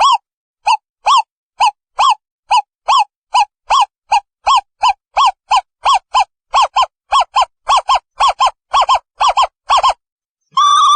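Owl calling: a long series of short hoots, each rising and falling slightly in pitch, that speed up from about two a second to about three a second toward the end.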